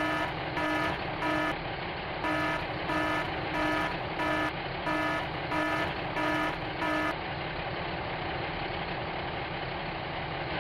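Reversing-alarm beeps from a toy truck: an electronic beep repeating about one and a half times a second in runs of four or five with short gaps, over a steady engine-like hum. The beeps stop about seven seconds in and the hum carries on.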